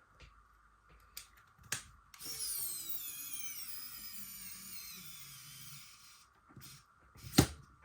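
Cordless electric screwdriver driving a screw into a Game Boy Advance shell for about four seconds, its motor whine falling in pitch as it slows. The owner thinks it needs charging again. A sharp click comes near the end.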